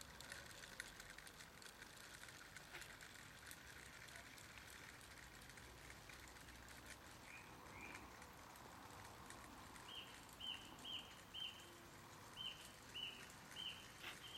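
A bird calling, faint: two short rising chirps, then from about ten seconds in a run of short repeated notes, about two a second.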